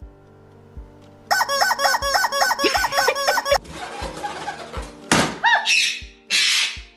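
A bird calling in a fast run of short, squeaky, rising-and-falling calls, about four a second for two seconds, followed about five seconds in by two more calls and a short hiss.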